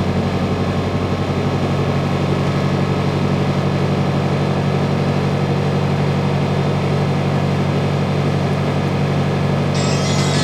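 Sightseeing boat's engine running steadily, a low drone heard from inside the passenger cabin. A higher hiss joins it near the end.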